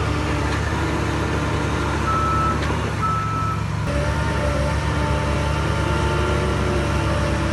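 Heavy diesel engine of earth-moving machinery running steadily, with two short high-pitched beeps from a reversing alarm about two and three seconds in.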